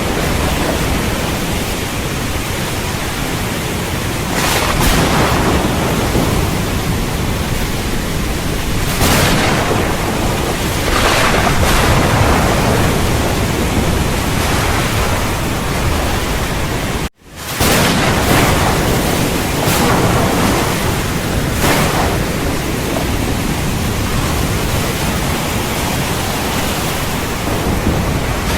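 Heavy rain pouring steadily, with deep thunder rumbling underneath and swelling every few seconds. The sound cuts out for a split second a little past halfway, then resumes.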